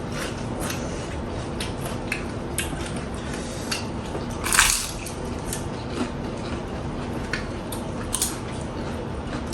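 Close-up eating sounds: wet chewing and mouth noises, with small clicks of utensils against a plate. About four and a half seconds in there is one louder, longer noisy sound.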